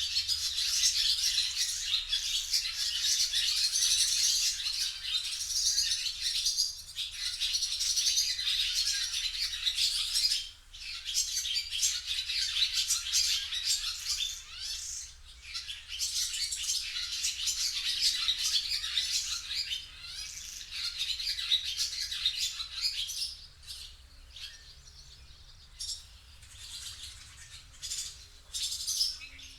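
Recorded bird song: dense, high-pitched chirping and twittering of small birds, with a brief break about ten seconds in, growing sparser and quieter over the last several seconds.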